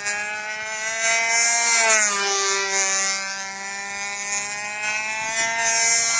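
O.S. .20 FP two-stroke glow engine on a Flite Streak control-line plane, running steadily as the plane flies its circle. Its high buzz swells and drops in pitch each time the plane sweeps past, about two seconds in and again near the end.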